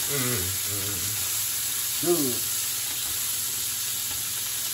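Zucchini, yellow squash and red onion sizzling steadily in a hot frying pan with garlic and fat, stirred with a spatula.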